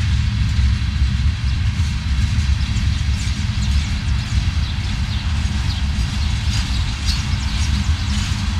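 Freight train rolling past on the track: a steady deep rumble, with many short high squeaks and ticks from the wheels on the rails.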